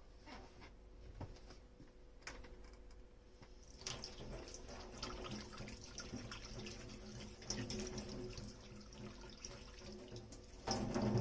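Kitchen tap running into a sink during dish washing. It starts about four seconds in after a few light knocks, and swells louder near the end.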